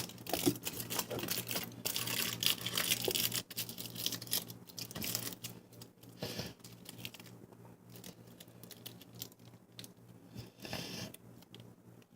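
Aluminium foil crinkling and crackling in irregular bursts as it is squeezed and folded by hand, busiest in the first half and fainter later.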